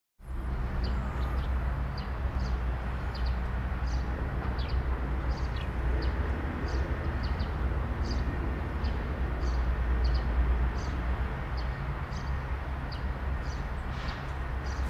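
Outdoor ambience: a steady low rumble with short high chirps repeating about twice a second throughout.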